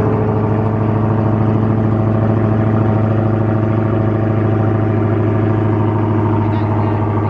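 Dodge Charger SRT Hellcat's supercharged 6.2-litre V8 idling steadily and loud just after start-up, through an exhaust whose mid mufflers the listener judges to have been cut out.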